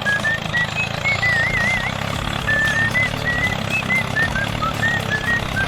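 Steady low hum of a small model tractor's motor running, under a simple background tune of short high notes that step up and down, one of them wavering.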